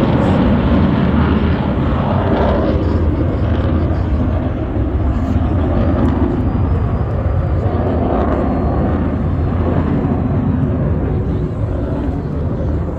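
An aircraft's engine noise during a flypast: a loud, steady roar that holds throughout.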